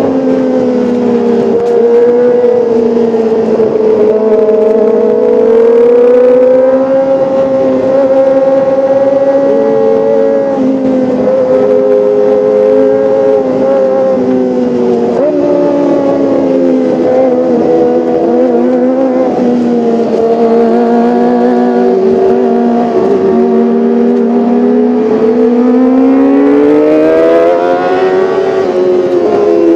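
Kawasaki ZX-25R's 249 cc inline-four engine running continuously at high revs, its high, steady exhaust note drifting slowly up and down in pitch and climbing again near the end.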